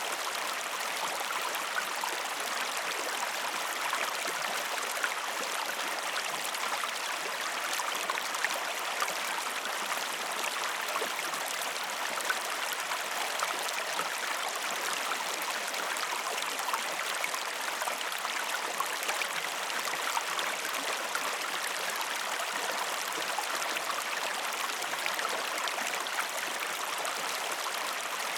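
Steady rush of a flowing stream, with many small drips and splashes scattered through it.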